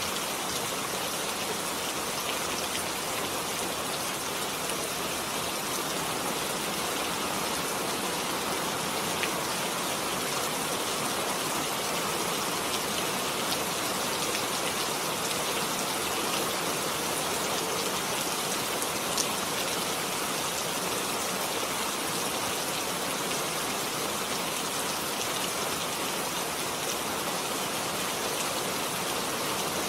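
Heavy rain falling steadily, a dense, even hiss of drops striking surfaces, with the odd single drop louder than the rest.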